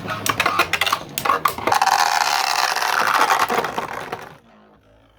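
3D-printed Beyblade spinning tops battling in a stadium: rapid clacking knocks as they collide, then a steady whirring scrape of the tops spinning against each other and the bowl. The sound stops abruptly about four seconds in as the round ends.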